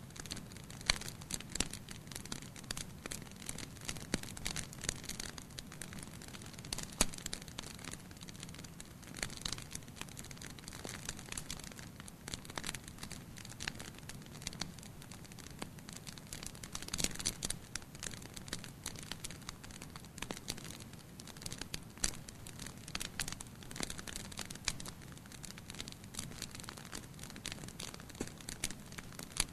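Fire burning in a fireplace, crackling with frequent irregular sharp pops over a low steady rumble of flame.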